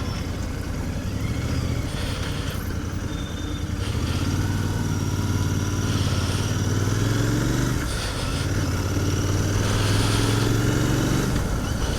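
Royal Enfield Continental GT 650's parallel-twin engine on its stock exhaust, riding under way. About four seconds in the revs climb, the note drops near eight seconds as a gear is changed, then it climbs again and drops once more near the end.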